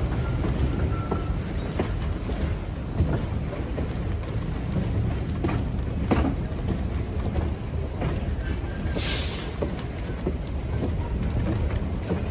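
Train rolling on the track: a steady low rumble with occasional wheel knocks, and a brief hiss about nine seconds in.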